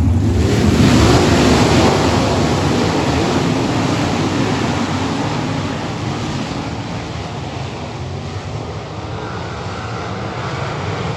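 A field of race cars running on a dirt oval: a loud rush of engine noise that fades over several seconds as the pack moves away, then builds again near the end as it comes back around.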